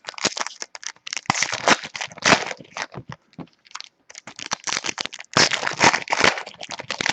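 Trading cards and their packaging being handled: irregular crinkling and rustling with many small clicks, easing off briefly about halfway through.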